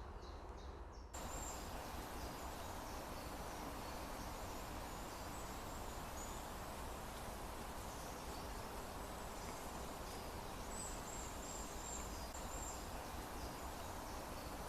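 Steady outdoor ambience: an even hiss with faint, high-pitched chirping, cutting in abruptly about a second in.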